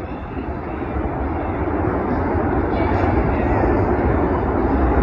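Aircraft engine noise, a steady rushing sound without a clear pitch that grows gradually louder as the aircraft approaches.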